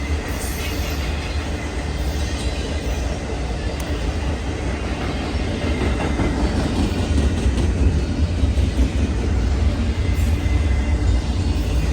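Train rolling past on the rails: a steady, heavy rumble that grows somewhat louder about halfway through.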